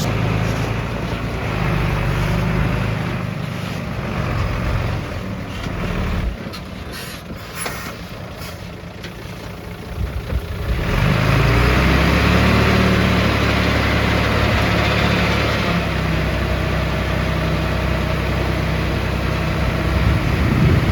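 Heavy diesel engines of earthmoving machinery (dump truck and bulldozer) running under load, easing off in the middle and revving up loud again about halfway through.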